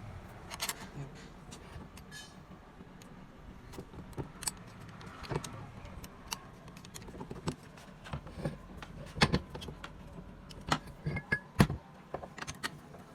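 Irregular metallic clicks, clinks and knocks of metal tools and parts being handled, with the loudest knocks about nine and eleven and a half seconds in, over a faint low hum.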